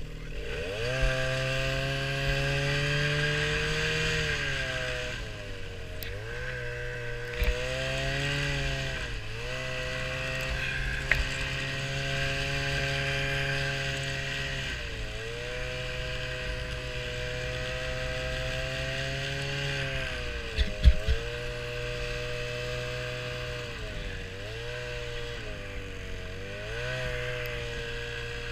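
Small vehicle engine running under way, its pitch dipping and climbing again several times as the revs change. A few sharp knocks come through, the loudest about 21 seconds in.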